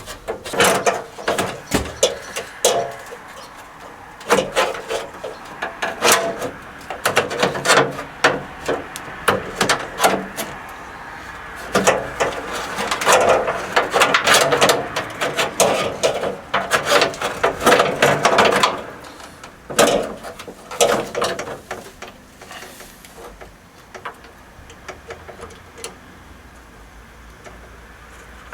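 Repeated knocks, clicks and scraping of metal parts being handled and fitted into a van door: the restored window regulator and the repaired window frame. Busiest for about the first twenty seconds, then only a few faint knocks.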